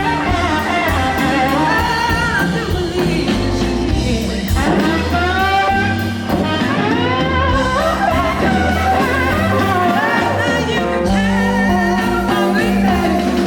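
Live blues band playing, with a voice singing over guitar, bass and drums.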